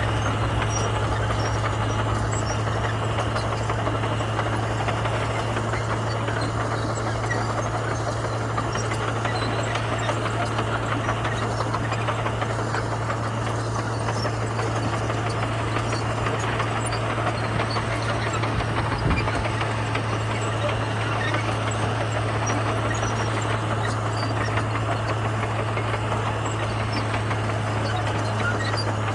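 Komatsu bulldozer's diesel engine running steadily with a constant low hum, with one brief thump about two-thirds of the way in.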